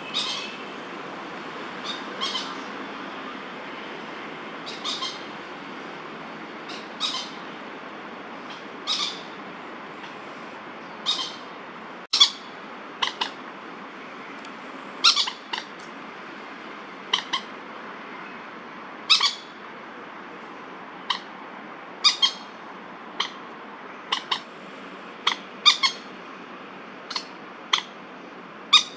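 Common moorhens giving short, sharp alarm calls over and over, one every second or two, more often in the second half. They are calling at a goshawk, a predator, perched nearby.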